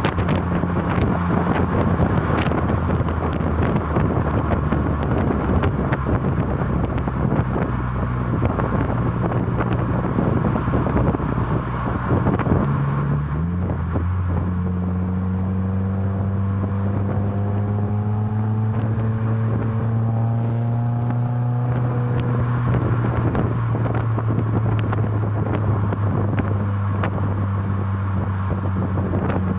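Subaru WRX's turbocharged 2.0-litre flat-four through an ISR MBSE catback exhaust with an added resonator, droning steadily while the car is driven, with some wind noise. About 13 seconds in the pitch steps up, climbs slowly for several seconds, then drops back down.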